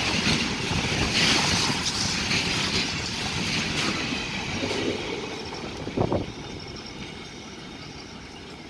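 Loaded BCNA covered freight wagons rolling slowly past on the rails with a continuous wheel and wagon noise. There is one sharp knock about six seconds in, and the noise fades as the brake van at the tail goes by.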